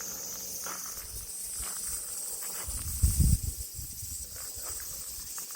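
Cicadas droning in a high, steady hiss, with a few soft clicks and a short, loud low thump about three seconds in.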